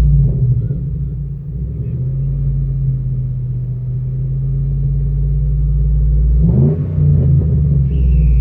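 Ford F-150's 5.0 V8 with an MBRP 3-inch side-exit exhaust, heard from inside the cab: it runs with a steady low drone that slowly builds, then is revved sharply about six and a half seconds in.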